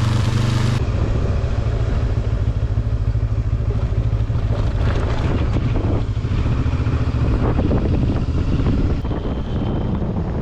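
Benelli 702 parallel-twin motorcycle engine running under way, a continuous low pulsing engine note with some wind noise on the microphone. The sound changes abruptly about a second in, losing much of its high hiss.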